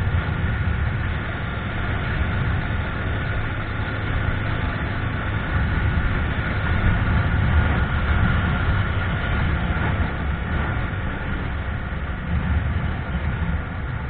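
Motorcycle riding along a road, its engine running steadily under a constant low rumble of wind and road noise.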